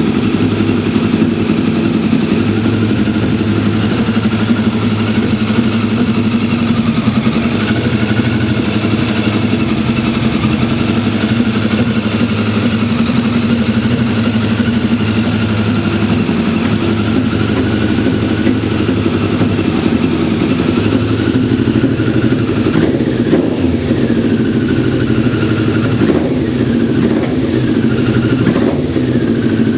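Kawasaki ZZR1100 C's inline-four engine running at a steady idle after long storage, with a few small rises and falls in pitch near the end.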